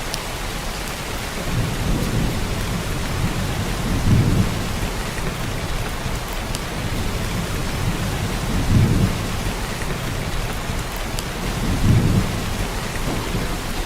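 Heavy downpour of rain hissing steadily, with low rumbles of thunder swelling up several times, the strongest about four, nine and twelve seconds in.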